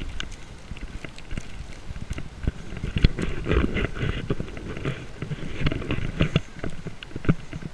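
Footsteps crunching through deep snow in irregular steps, over a low rumble of wind on the microphone.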